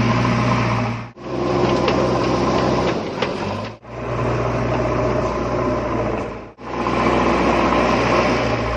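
Tractor running steadily with an even drone, broken off abruptly three times by edits.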